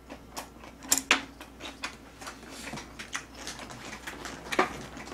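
A person chewing a mouthful of food close to the microphone: irregular clicks and smacks, the loudest about a second in and again about four and a half seconds in.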